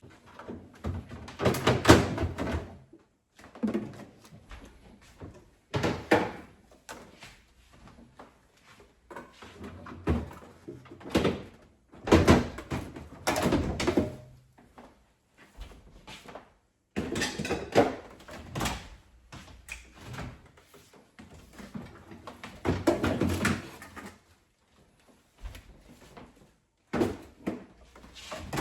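Food containers and refrigerator parts being handled, taken out and set down: irregular knocks, thuds and clatter in a dozen or so separate bursts with short pauses between.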